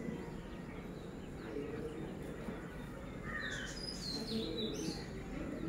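Birds chirping in short high calls, bunched about three to five seconds in, over a steady outdoor background.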